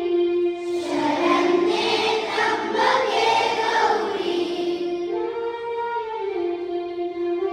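Music with a group of children singing in long held notes. A fuller, louder passage runs from about one to five seconds in.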